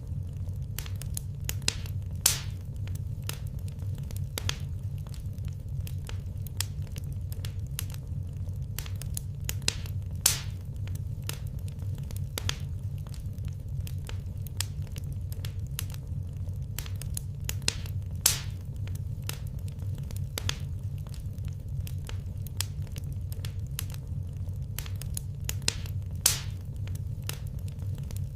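Wood fire crackling in a fireplace: irregular snaps and clicks, with a few louder pops spread through, over a steady low rumble.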